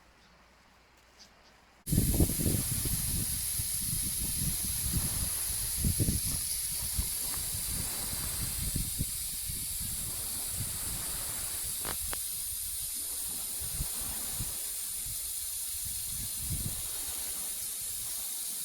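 Afghan kazan pressure cooker venting steam through its valve to release the pressure after cooking: a loud, steady hiss that starts suddenly about two seconds in.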